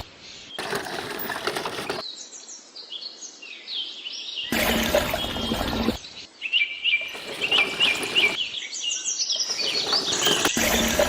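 Birds chirping and calling in quick repeated notes, broken off and restarting at sharp cuts. In between come three stretches of rougher, fuller noise of about a second and a half each.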